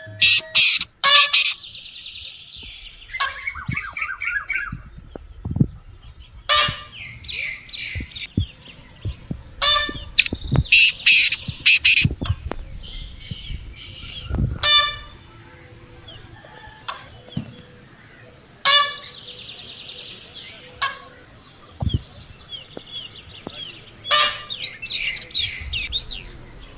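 Birds chirping and calling in short, sharp runs of repeated high notes and trills, loudest about a second in, again around the middle and near the end, with a few brief low thumps between them.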